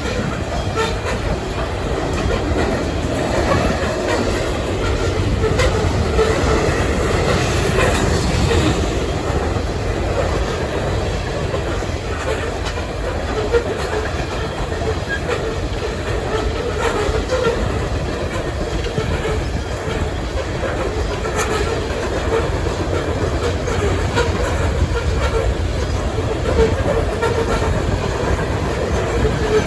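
Loaded coal cars of a freight train rolling past: steel wheels clicking over rail joints over a steady rumble.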